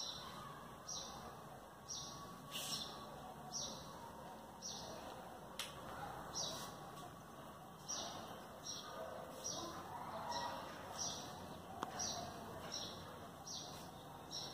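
A small bird calling over and over: a short, high chirp that falls in pitch, repeated about once a second.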